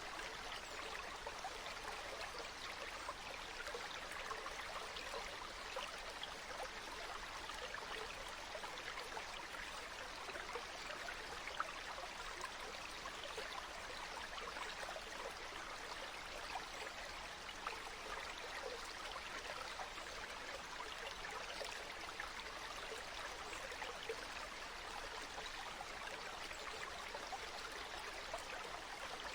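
Water flowing and babbling steadily, as in a small stream, with a constant rush and fine splashing.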